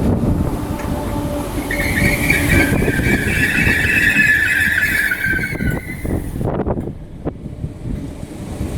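Merseyrail electric multiple unit running along the platform on the rails, with a high brake squeal that lasts a few seconds and sinks slightly in pitch before fading.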